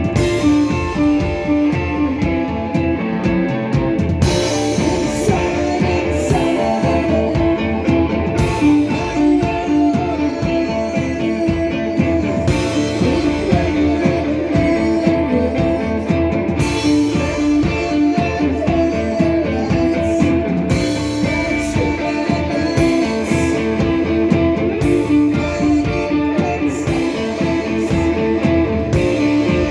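Live rock band playing an instrumental passage of electric guitars over a drum kit, with a cymbal crash about every four seconds.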